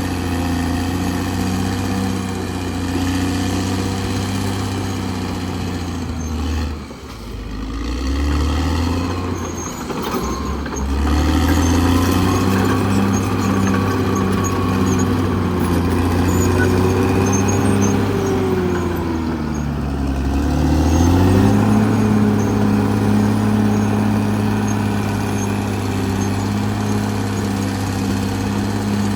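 Caterpillar D6R XL bulldozer's diesel engine running steadily. Its note dips briefly about seven seconds in, then sags and climbs back around twenty seconds in.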